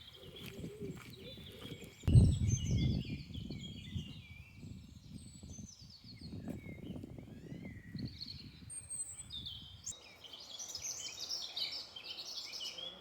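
Small birds singing and chirping, with many short trills that grow busier near the end. A loud low rumble about two seconds in, with fainter low rustling after it.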